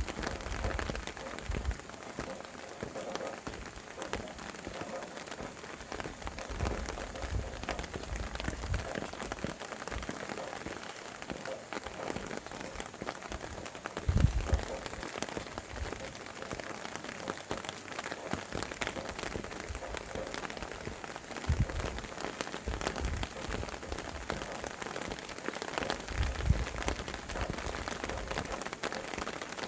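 Steady rain falling, a dense patter of drops. A few brief low gusts of wind rumble on the microphone, the strongest about halfway through.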